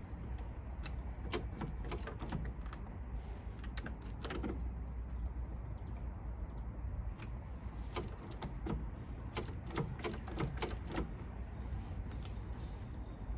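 Scattered light clicks and taps of hand work on parts, irregular and more frequent in the second half, over a steady low hum.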